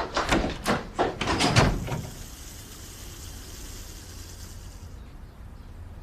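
Several quick knocks and thumps in the first two seconds, then a steady hiss that stops about five seconds in.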